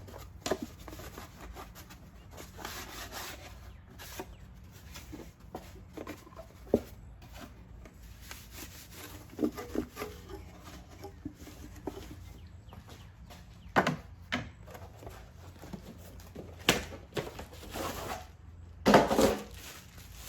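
Hands handling and cleaning out a car's plastic air filter housing: irregular rubbing and scraping with scattered knocks and clicks. The loudest knock comes near the end.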